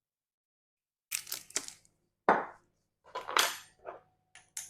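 Kitchen utensils and dishes clinking and knocking: a handful of short, sharp strikes at uneven intervals, starting about a second in.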